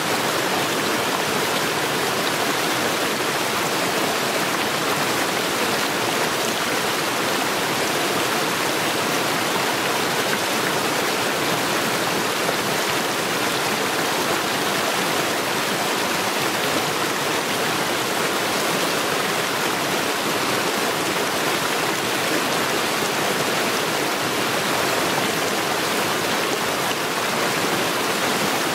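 Mountain stream rushing over stones, a steady, unbroken wash of water.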